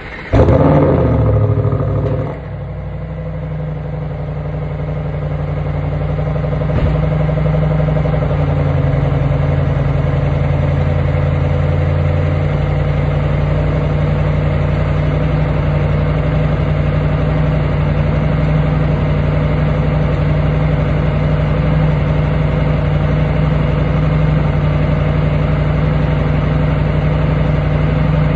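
2021 Audi RS7's 4.0-litre twin-turbo V8 started from cold: it catches at once, flares loudly for about two seconds, then drops and settles into a steady cold idle.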